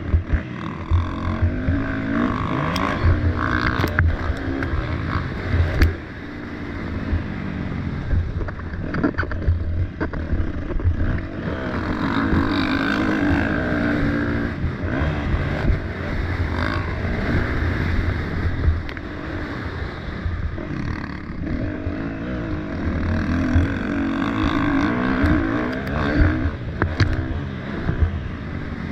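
Motocross bike engine revving up and down repeatedly as it is ridden around the track, rising and falling in pitch, with a steady low rumble and a few short knocks.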